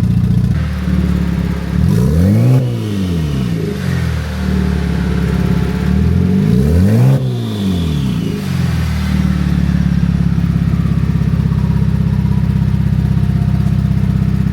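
Twin-turbo Genesis G70 engine idling on a freshly finished build, revved twice, about two seconds in and again near seven seconds. Each time the pitch climbs and falls back to a steady idle.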